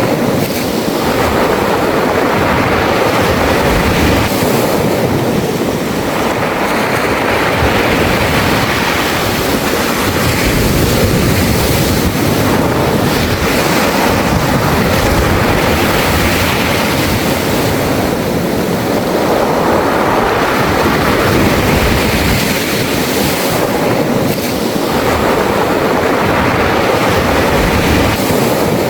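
Sea waves washing over a beach of smooth round pebbles, the surf and the stones making a continuous hiss and clatter that swells and eases every few seconds.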